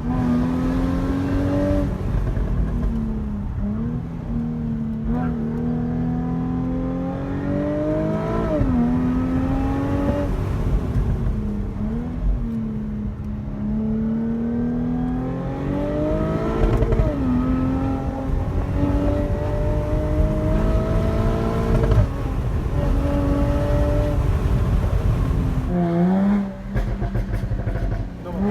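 Jaguar F-Type V6 S's supercharged 3.0-litre V6 driving under way, its pitch climbing slowly through each gear and dropping sharply at the gear changes, several times, over a low rumble.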